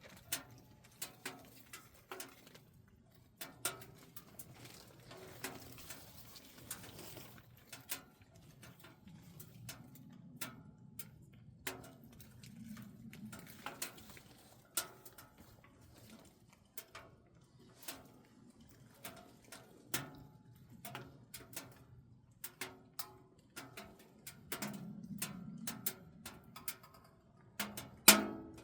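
Firewood crackling in a C&B 460 double-combustion camping wood stove: irregular sharp pops and snaps, one louder pop near the end. A low cooing swells now and then, loudest around 25 seconds in.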